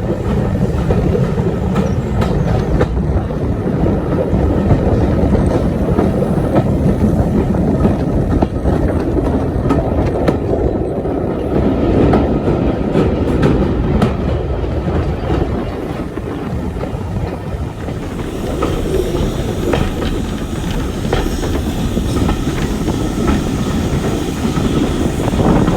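Train running along the track, its wheels clattering over the rails with a steady loud rumble. About two thirds of the way through, a higher hiss joins the sound.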